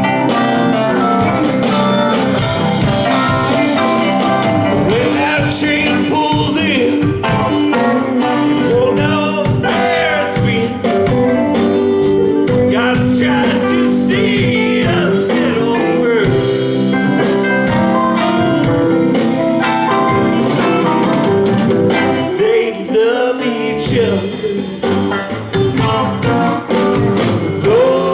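Live rock band playing: electric guitars, keyboards, bass and drums together, with notes bending in pitch over the top.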